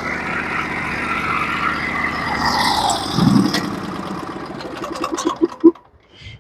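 Norwood HD36v2 portable sawmill's gasoline engine running, then switched off about five and a half seconds in, its firing pulses slowing as it coasts to a stop.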